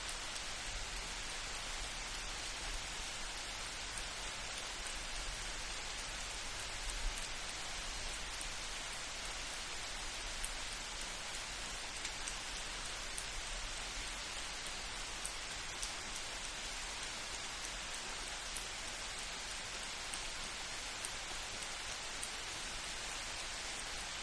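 Steady rain falling, a dense even patter with scattered sharper single drop hits.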